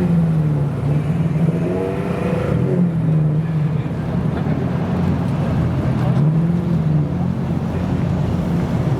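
Car engines running, with a steady loud noise of engines and traffic, and pitched sounds that rise and fall a few times, either revs or voices.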